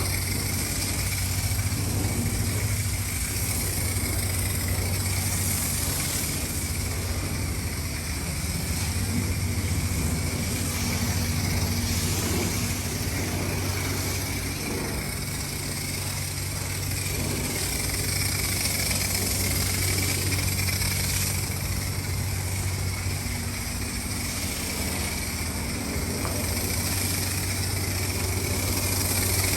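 Ford Mustang GT's V8 running steadily through a straight-piped exhaust, a continuous low engine note with no sharp revving.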